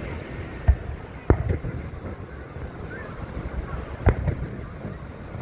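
Fireworks bursting with sharp booms: three bangs in the first second and a half and another about four seconds in.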